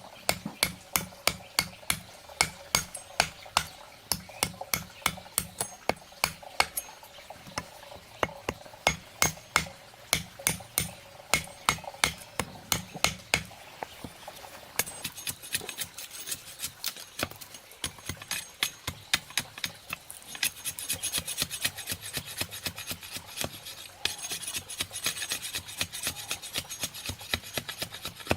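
Rhythmic chopping, loud even blows about two or three a second. After a short pause near the middle it gives way to faster, lighter scraping strokes.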